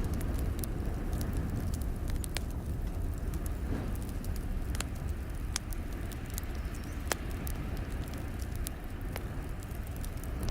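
Wood fire in a fireplace crackling, with irregular sharp pops scattered over a steady low rumble.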